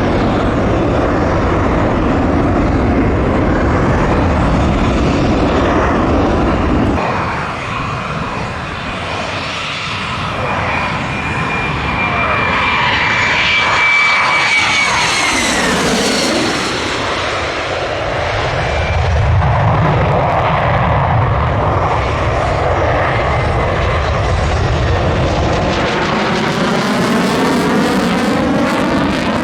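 Lockheed Martin F-35A Lightning II's single Pratt & Whitney F135 turbofan flying past on a circuit: a loud, steady rumble with a high whine that drops sharply in pitch about halfway through as the jet passes. Near the end the jet noise sweeps and phases as the aircraft comes round again.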